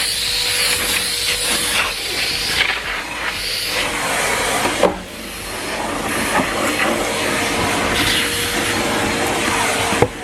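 Numatic Henry Pet vacuum cleaner running: a steady suction rush over a constant motor whine, its texture shifting as the floor tool moves. The tool knocks against something about five seconds in and again near the end.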